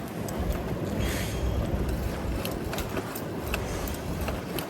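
Street traffic going by, with a strong low rumble of wind on the microphone, a brief hiss about a second in, and several light clicks in the second half.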